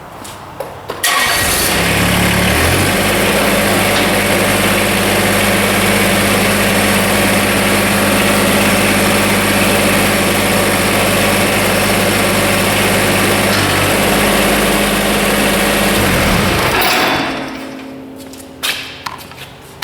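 Kubota BX24 compact tractor's small three-cylinder diesel cranking and catching about a second in, then running steadily for about fifteen seconds before being shut off and dying away near the end.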